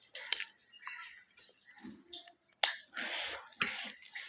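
A person eating noodles close to the microphone: wet chewing and slurping sounds broken by a few sharp clicks.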